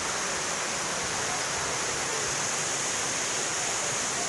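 A waterfall's falling water rushing in a steady, unbroken wash of noise.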